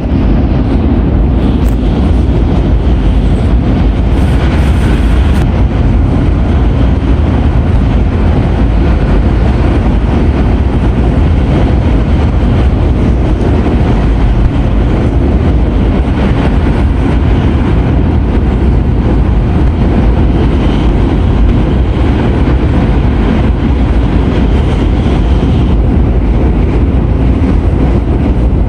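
Shinkansen bullet train running at speed, heard from inside the passenger car: a loud, steady, deep rumble of the train in motion.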